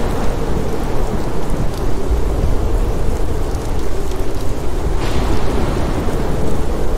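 Steady rain falling, a dense even hiss over a constant deep rumble.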